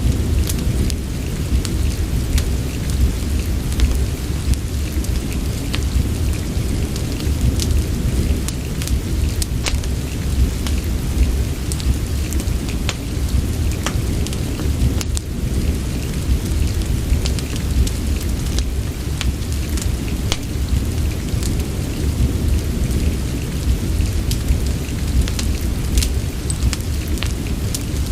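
Steady rain with a deep, even low rumble, mixed with a fireplace whose irregular sharp crackles and pops sound through it.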